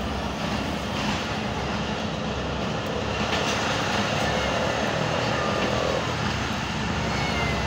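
Passenger train coach rolling slowly along a station platform: steady running noise of the carriage and its wheels on the rails, heard at an open coach window.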